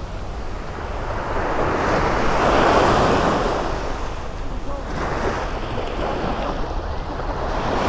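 Sea waves washing in over the shallows, swelling to a peak about two to three seconds in, easing off, then building again near the end. Wind rumbles on the microphone throughout.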